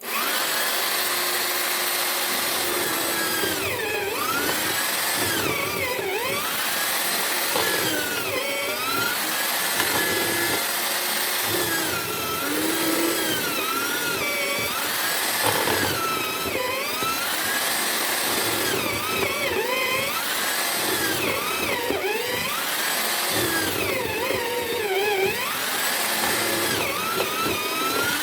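Electric-drill motor of a homemade wood mortiser running continuously as it cuts a mortise. The motor's whine sags in pitch and recovers about every two seconds as the bit is plunged into the wood under load and eased off.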